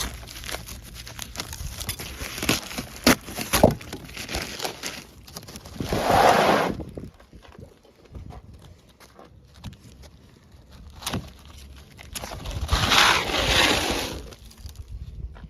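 Asphalt shingles being handled as a bundle is opened: scattered clicks and knocks, then two longer rustling scrapes, one about six seconds in and a longer one around thirteen seconds in.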